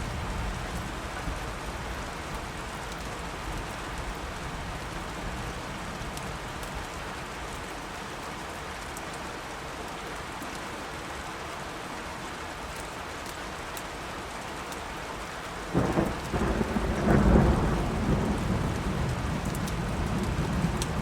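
Steady rain falling, with a loud crack of thunder about three-quarters of the way through that rumbles on to the end.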